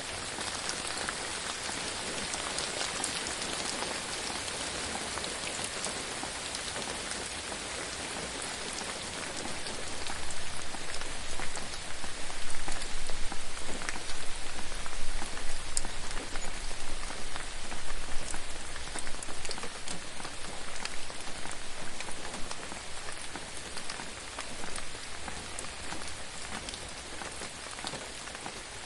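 Steady rainfall pattering on a surface, a dense hiss with many small drop ticks. It grows heavier about a third of the way in, then eases gradually toward the end.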